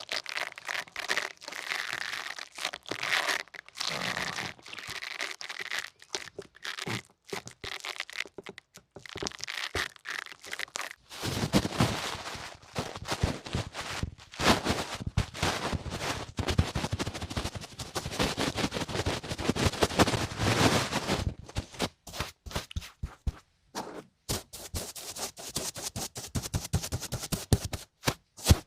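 Close-miked ear-cleaning ASMR: dense crackling and scratching right at the microphone, thinning to sharp separate clicks in the last few seconds.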